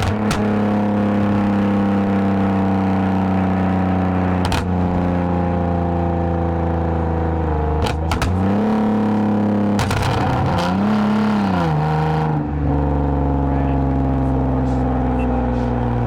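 2010 Lexus IS250 AWD's V6 running through a full aftermarket exhaust with valved mufflers, holding steady revs while driving. The engine note rises and falls twice, about eight and ten seconds in, then settles to a lower steady pitch, with a few brief knocks along the way.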